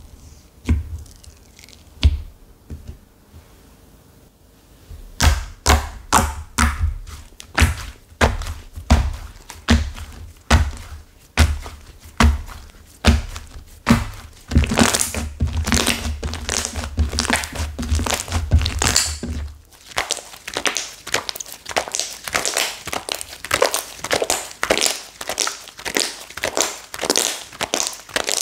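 Slime stiffened with clay being squeezed and pressed by hand, giving repeated thunks and crackles about once or twice a second. About two-thirds of the way in, the low thumps drop out and a denser crackling goes on.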